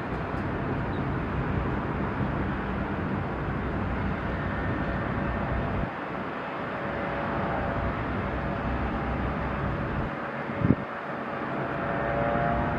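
Outdoor harbour ambience: a steady rumble of engine and wind noise, with a short low thump about ten and a half seconds in and a humming tone joining near the end.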